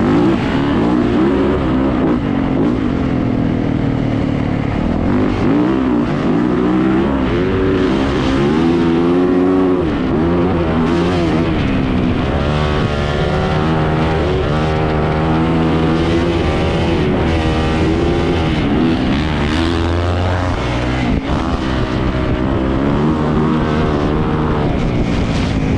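Yamaha YZ450 dirt bike engine, a 450 cc single-cylinder four-stroke, being ridden hard: its pitch keeps rising and falling as the throttle is worked and the gears change.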